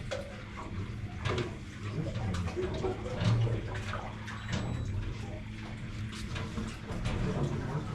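Water splashing and trickling in short, irregular bursts, over a faint steady hum.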